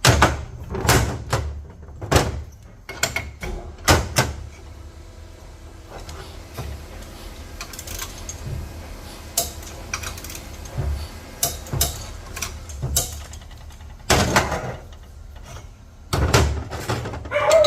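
Hand tools clicking and clanking on metal as a ratchet and torque wrench run down and tighten the cap nuts on a connecting rod. The sharp clicks come irregularly, with two louder clatters near the end.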